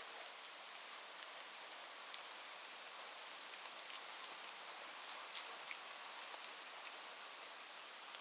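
Steady rain falling, an even hiss with many scattered, sharp little drop ticks.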